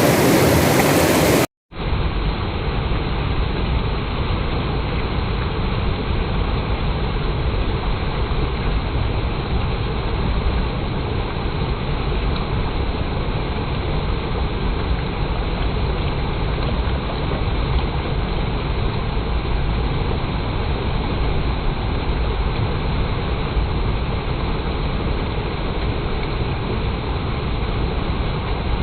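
Clear water rushing over a stream or waterfall in a steady wash. About a second and a half in, it cuts out briefly and returns duller and deeper, a low steady rumble, as the water sound is slowed down.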